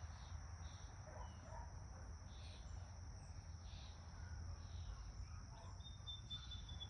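Faint outdoor ambience: a steady high insect drone with soft chirps about once a second, over a low rumble, and a thin high whistle near the end.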